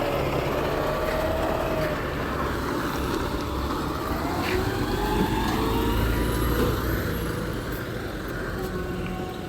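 Garbage truck's diesel engine running steadily, with a whining tone that rises and falls.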